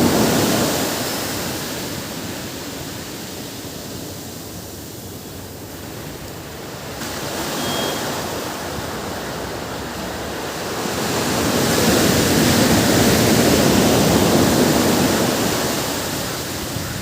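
Ocean surf on a beach: waves breaking and washing in, the rushing noise swelling and easing off, with a larger wave building about twelve seconds in.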